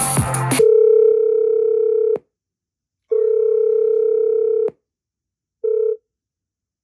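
Music cuts off abruptly less than a second in and an incoming-call ringtone sounds: a steady electronic beep, two long beeps of about a second and a half each, then a short one cut off as the call is answered.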